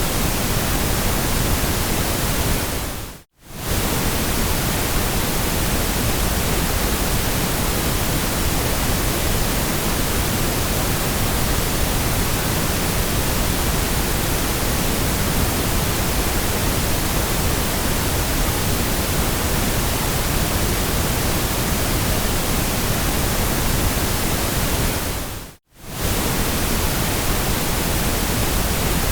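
Steady ambient white noise, an even hiss from the lowest to the highest pitches. It fades out and straight back in for a split second twice, a few seconds in and again a few seconds before the end.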